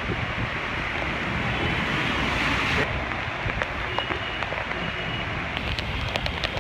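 Heavy monsoon rain falling steadily, with scattered sharp drop ticks in the second half.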